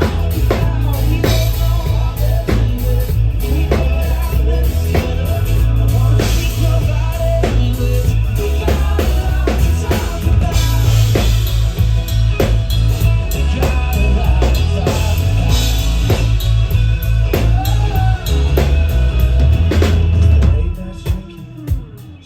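A band playing a song with a drum kit keeping a steady beat over heavy bass. About twenty seconds in the bass drops out, leaving a few separate drum hits.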